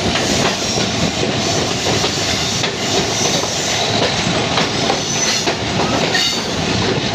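Moving train running at speed: a loud, steady noise of the carriage with wheels clattering over the rails.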